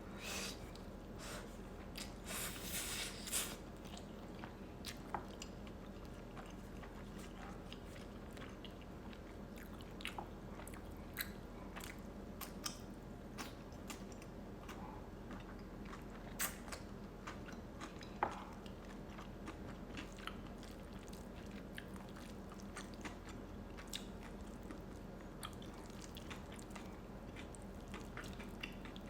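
Close-miked eating of Korean rice cakes and noodles: soft chewing and biting, with scattered wet mouth clicks and a denser burst of them about two to three seconds in.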